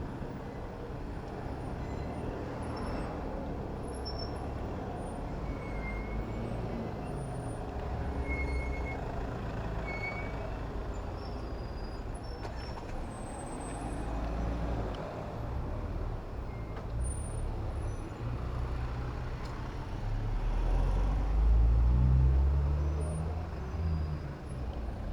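Urban road traffic heard from a bicycle: a steady low rumble of engines, with a heavy vehicle such as a bus or truck growing louder about twenty seconds in, its engine pitch rising and falling as it passes.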